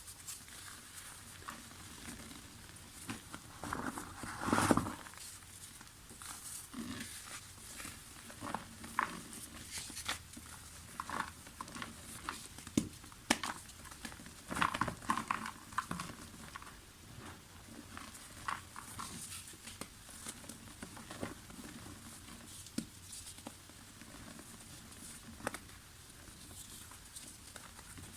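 Soft dried mud crumbling, an irregular run of small crunches, cracks and trickles, with one louder crunch about four seconds in and a busier stretch around the middle.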